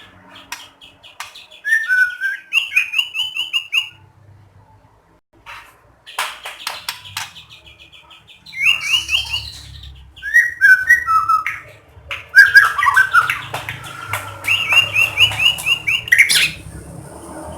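White-rumped shama (murai batu) singing: loud phrases of rapid repeated whistles and sweeping notes mixed with high chattering, in about four bouts separated by short pauses.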